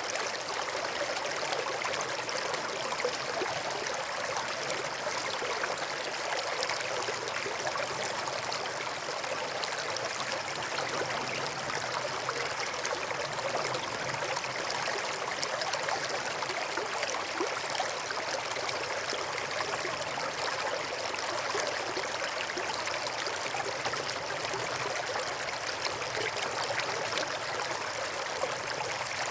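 A brook flowing steadily: a constant, even rush of running water.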